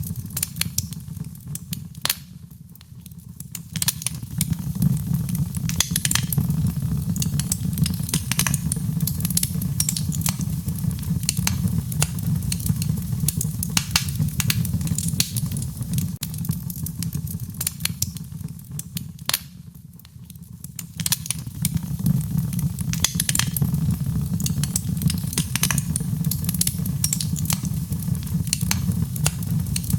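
Wood fire crackling: irregular sharp pops and snaps over a low, steady rumble of burning. The rumble sags briefly twice, about three seconds in and again about two-thirds of the way through.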